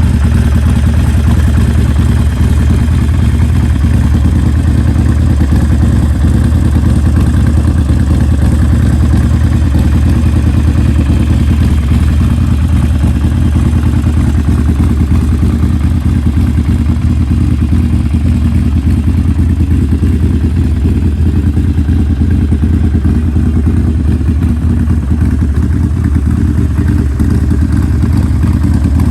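Harley-Davidson Sportster Iron 1200's air-cooled V-twin idling steadily through a D&D Bobcat aftermarket exhaust, a low, even running note with no revs.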